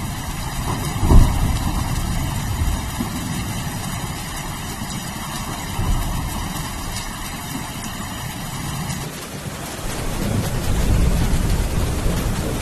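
Steady rain with thunder. There is a sharp thunderclap about a second in, a smaller clap near six seconds, and rolling thunder building low toward the end.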